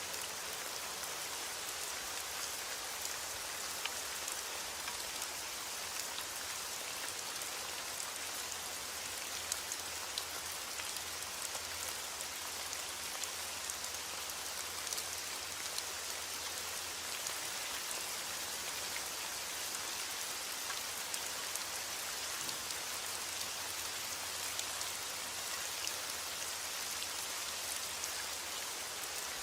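Steady rain falling: an even hiss of rain with many small drop ticks scattered through it.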